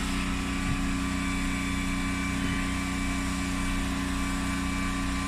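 Steady low hum with several constant tones from a plugged-in Samsung bottom-freezer refrigerator running.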